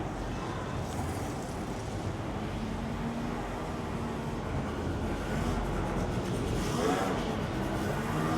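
Busy street ambience: a motor vehicle's engine running close by over a steady murmur of the street, with faint voices.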